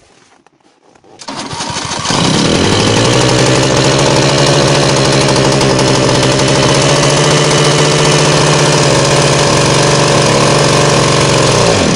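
The DT-75 crawler tractor's small two-stroke petrol starting (pony) engine starts at −20 °C, catching about a second in and quickly settling into a loud, steady run. Near the end it runs down and stops.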